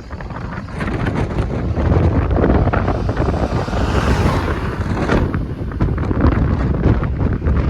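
Strong storm wind buffeting the microphone: a loud, gusty rumble with crackling that swells about a second in.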